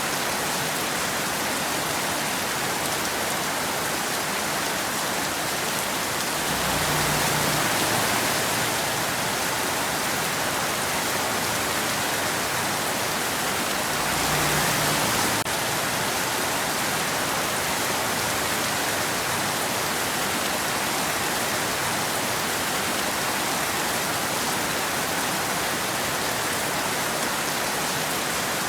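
Steady rain falling as an even hiss, swelling slightly louder twice for a second or two.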